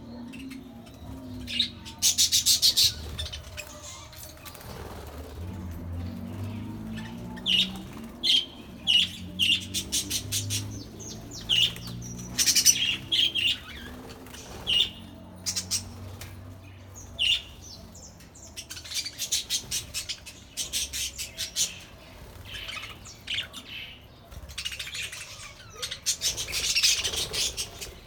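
Budgerigars chirping in many short, scattered bursts, with quick fluttering of wings.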